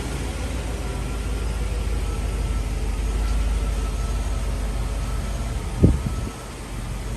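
1986 Mercedes-Benz 420SEL's 4.2-litre V8 idling steadily just after a cold start. A single sudden thump about six seconds in.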